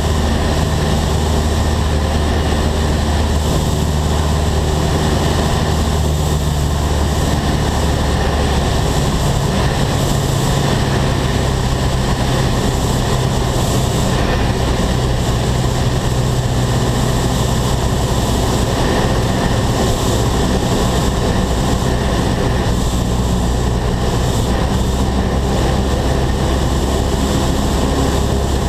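Single-engine piston airplane's engine and propeller droning steadily, heard inside the cabin; the drone shifts pitch slightly a couple of times.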